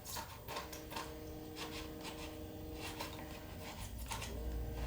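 Light scraping and rubbing on a balsa-wood model aircraft fuselage as dried glue is cleaned off its side, in short irregular strokes.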